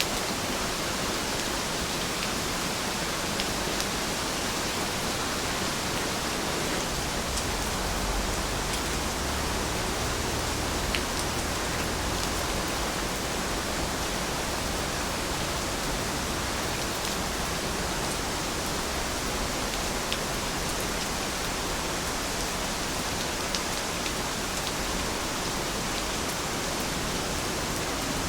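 Steady rain, an even hiss of falling water with faint scattered drop ticks.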